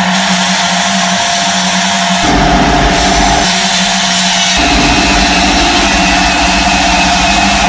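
An electric power tool running steadily at high speed. A deeper rumble joins in about two seconds in, drops out for a moment, then returns.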